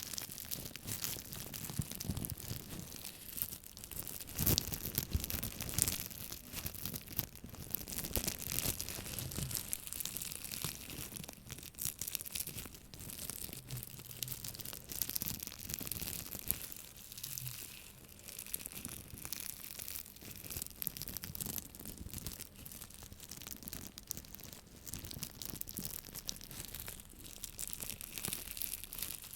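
Close-miked scratching and tapping on an object: a dense, continuous run of small scratches and clicks.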